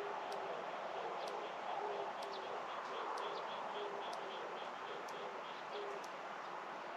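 A dove cooing in short, low, repeated notes, with a small bird giving a quick series of high chirps in the middle, over a steady background hiss.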